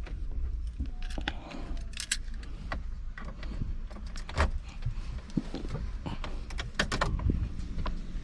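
Keys jangling, with scattered sharp clicks and light knocks.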